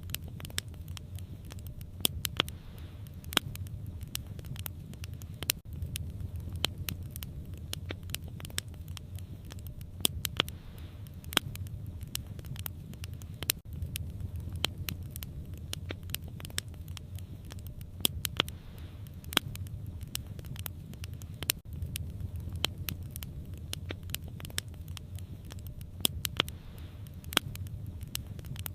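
Wood fire crackling: irregular sharp snaps and pops, a few of them louder, over a low steady rumble of the flames.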